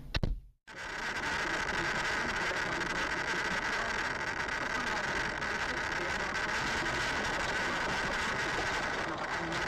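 Steady noise of a car driving, engine and road, after a sudden cut to silence about half a second in.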